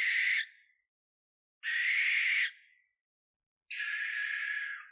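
Great grey owl giving three harsh, hissing screeches, each about a second long and about two seconds apart.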